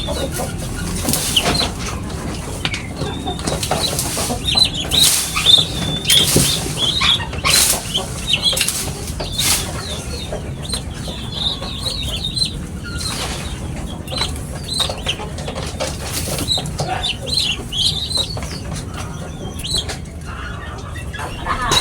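A flock of small sparrow-like birds (burung pipit) chirping, with many short, high calls crowding and overlapping throughout and scattered sharp rustles among them.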